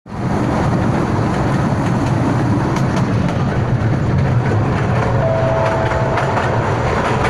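Kurobe Gorge Railway narrow-gauge trolley train running, a steady rumble and clatter of wheels on track heard from aboard its open-sided carriage. A thin, steady whine joins in briefly about five seconds in.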